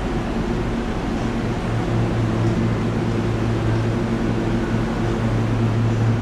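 Steady mechanical drone with a few held low tones over a noisy hiss, growing a little stronger about two seconds in.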